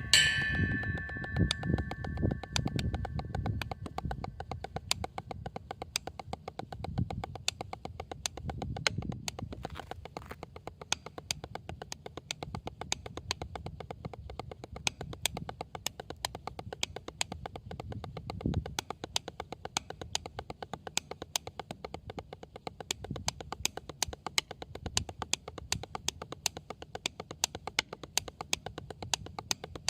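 Fast, even run of light taps on a drum, kept up throughout. A low rumble under the taps in the first few seconds fades away.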